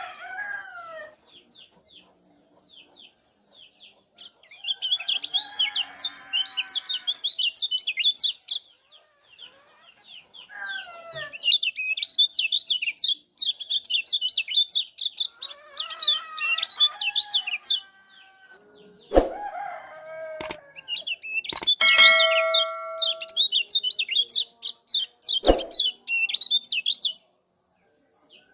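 Kecial kuning white-eyes giving rapid strings of short, high 'ciak' chip calls in repeated bursts. Lower, sliding calls from other birds come in at times, and a few sharp knocks sound in the second half.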